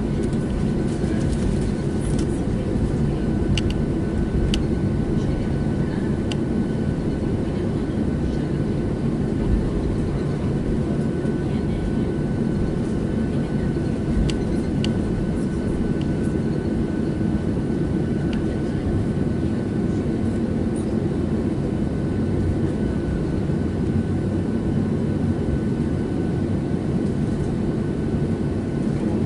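Cabin noise inside a Boeing 737-700 with CFM56-7B engines: a steady low rumble of engines and airflow, with a faint steady high whine over it and a few light rattles.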